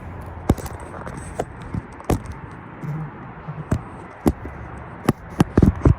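A series of sharp, irregular knocks and taps, about ten in all, with a quick cluster of louder ones near the end.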